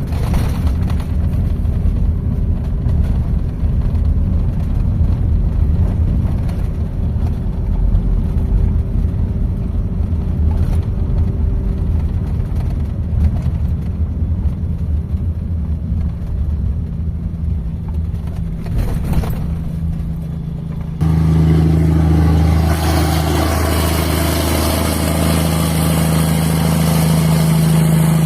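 Diesel engine running steadily. About two-thirds of the way through, the sound changes abruptly from a low rumble to a louder, evenly pitched hum with more hiss on top.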